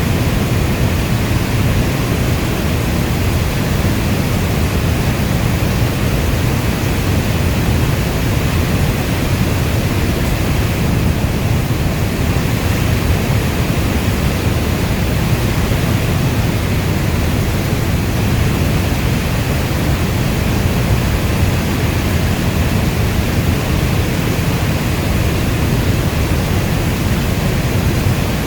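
Steady rainstorm: a dense, even rush of rain heavy in the low end, with no thunderclaps or single drops standing out.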